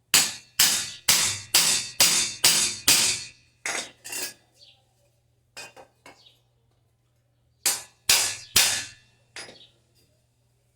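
Hammer striking a metal part with short ringing tails: seven hard blows about half a second apart, a few lighter taps, then another group of three or four blows near the end.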